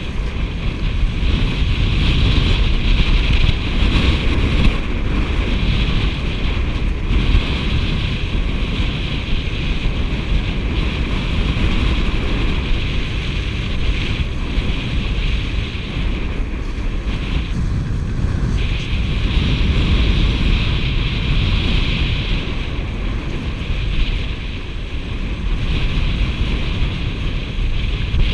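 Steady wind buffeting the microphone over the hiss and rush of water streaming past a Tornado catamaran's hulls under sail.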